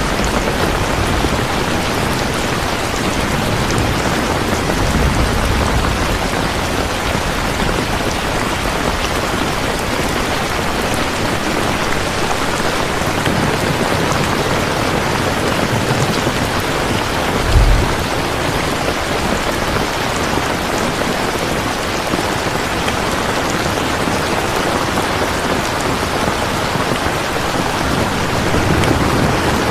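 Steady, loud rain falling, an even hiss of drops. A few low rumbles swell underneath, and there is one short low thump about two-thirds of the way through.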